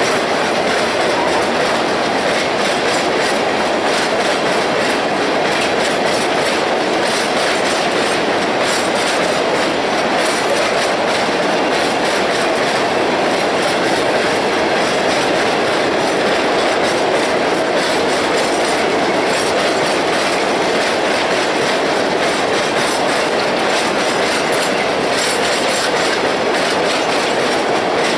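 Railroad cars of a freight train rolling past at a steady pace: continuous wheel-on-rail rumble with a clickety-clack of wheels over the rail joints.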